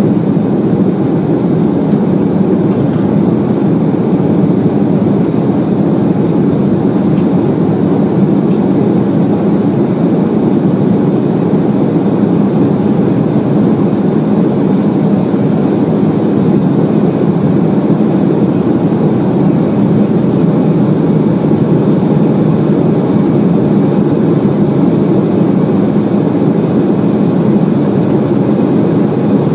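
Steady cabin roar of an Embraer E190 airliner in flight, the noise of its twin turbofan engines and the airflow heard from inside the passenger cabin. It stays even and low-pitched throughout, with no changes in power.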